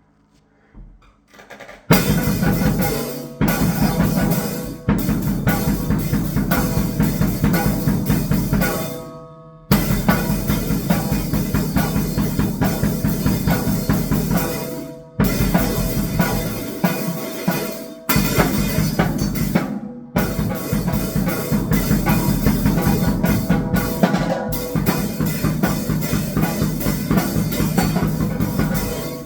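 Drum kit played at grindcore speed, a dense run of very fast strikes on kick and snare with cymbals, coming in about two seconds in, with a few brief stops, and cutting off at the very end.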